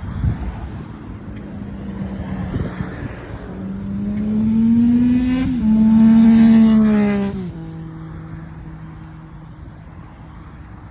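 A motor vehicle passing close by on the road: its engine note rises as it accelerates, then drops and fades as it goes past, about seven seconds in. Wind noise on the microphone of a moving bicycle runs underneath.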